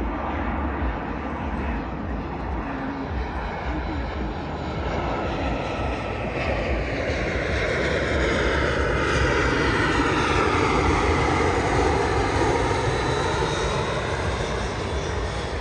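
Jet airliner passing close on its landing approach: a low engine rumble with a whine that sweeps in pitch, swelling to its loudest about two-thirds of the way in and then easing off.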